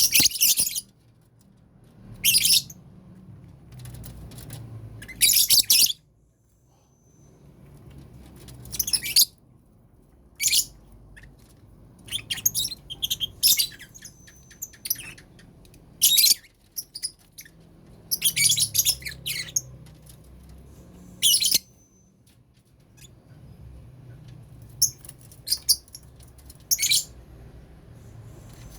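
Lovebirds in a colony cage giving shrill, high-pitched chirps and squawks in short bursts every second or two, several coming in quick flurries.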